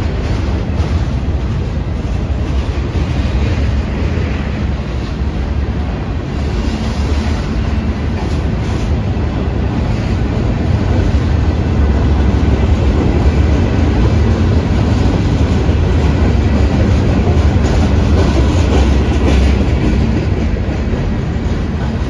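Freight cars of a passing freight train (boxcars, gondolas, a tank car) rolling by at close range: a steady heavy rumble of steel wheels on the rails, getting a little louder about halfway through.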